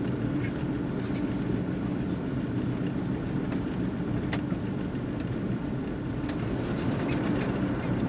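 Car driving on a road: steady low rumble of tyres and engine.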